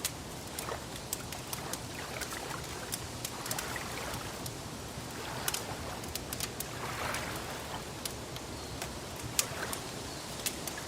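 Wood fire crackling with scattered sharp pops over a steady wash of gently lapping water.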